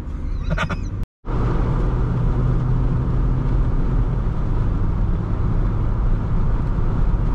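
Steady wind and road noise inside the cabin of a soft-top Jeep Wrangler JL picking up highway speed, with the driver's window partly open. The low rumble is mixed with rushing air. The sound cuts out for a moment about a second in.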